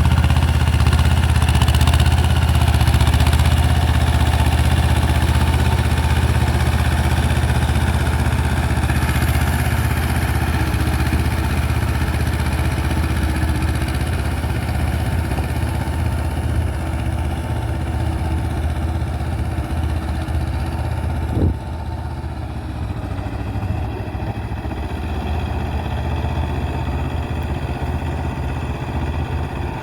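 Mahindra Jivo 245 DI tractor's diesel engine running steadily while working a rotavator, a continuous low drone. A single sharp knock comes about two-thirds of the way through, and the engine is a little quieter after it.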